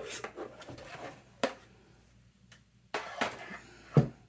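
Paper and craft supplies being handled on a tabletop: light rustling with a few sharp taps and knocks, the loudest near the end.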